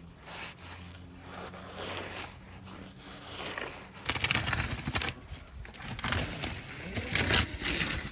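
Irregular scraping and handling noises with scattered clicks, louder and busier in the second half, stopping abruptly near the end.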